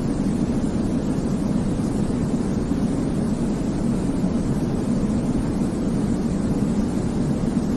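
Steady baby-sleep white noise: an even, deep rushing sound with most of its weight low and only a soft hiss above, like the rumble of an airplane cabin.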